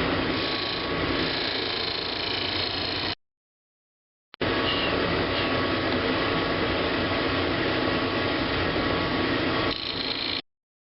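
Woodworking lathe running while a turning tool cuts a large wooden bowl blank, giving a steady rough scraping noise over the motor's hum. The sound cuts off abruptly about three seconds in, returns a little over a second later, and stops again near the end.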